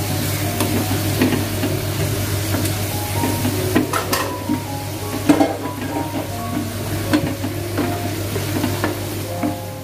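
Ground spice paste with lemongrass, bay and lime leaves sizzling in hot oil in a stainless steel pan, being sautéed until cooked, while a wooden spatula stirs and scrapes it with frequent clicks against the pan, the sharpest about four and five seconds in.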